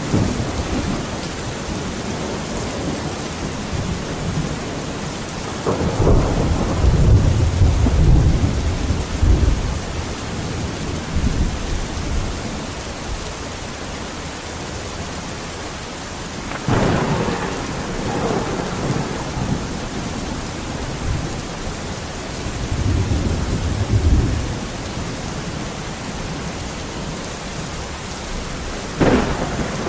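Steady heavy rain falling, with thunder rolling through it: a long low rumble about six seconds in, another about seventeen seconds in, a shorter one a little after twenty seconds, and a sharper clap near the end.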